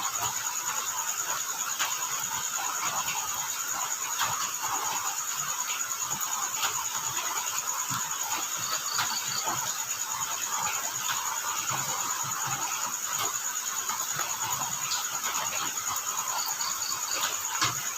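Crickets trilling steadily on one high, unbroken pitch over a light hiss of rain with scattered drop taps. A short run of three or four quick higher chirps comes twice, about halfway and near the end.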